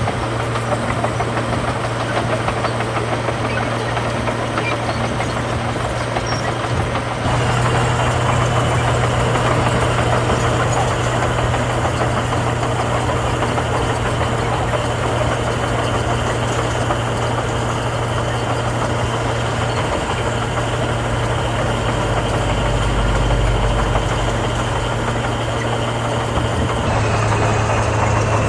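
Heavy diesel engine of road-building machinery running steadily, stepping up in loudness about seven seconds in and changing slightly in tone near the end.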